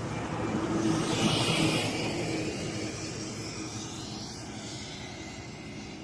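A passing engine that swells to its loudest about a second or two in, then slowly fades away.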